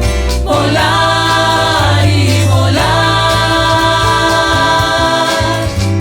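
Band performance with several voices singing long held notes in harmony over a steady bass, the chord changing with short glides about half a second in and again near the middle.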